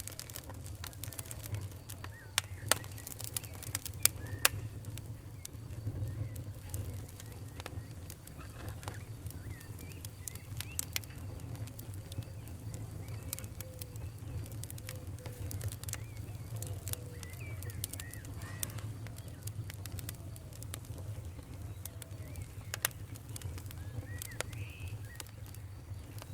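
Wood fire in a fireplace crackling, with sharp pops every few seconds over a steady low rumble of the flames. A few louder snaps come a few seconds in, and faint short squeaky whistles turn up now and then.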